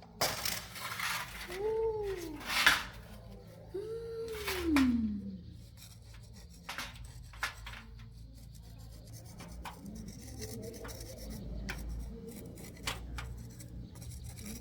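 Light clicking and scraping of metal tools being handled during motorcycle repair work. Two drawn-out calls that rise and then fall in pitch sound near the start, each about a second long.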